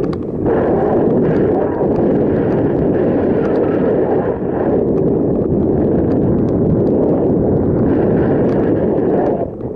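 Wind buffeting the camera's microphone while cycling, a loud steady rumble that dips briefly near the end.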